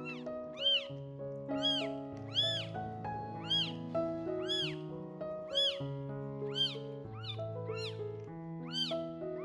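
Newborn kittens mewing: high-pitched cries that rise and fall, about one a second, over background music.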